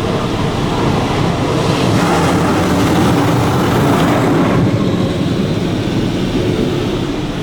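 High-pressure rinse jets of a Washworld High Velocity touchless car wash spraying water onto a pickup truck. The spray is a loud, steady hiss that builds over the first second and eases slightly after about four and a half seconds.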